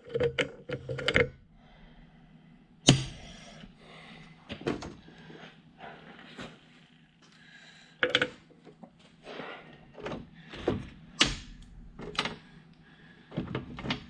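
Bolts and small metal hardware clinking and knocking as they are handled and picked through, in a series of irregular sharp clicks and knocks, over a faint steady low hum.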